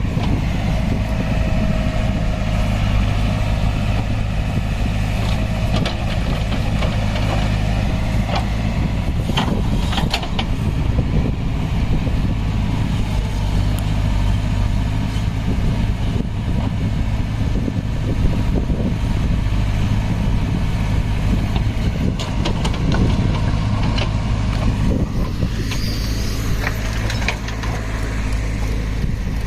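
Heavy diesel machinery, a backhoe loader and tractor, running steadily with a low hum, with scattered clanks and knocks.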